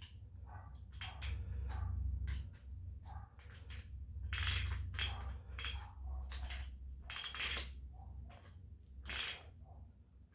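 Metal hand tools and hardware clinking and scraping: a wrench working a bolt, with sharp clicks and several longer rasping scrapes of about half a second each.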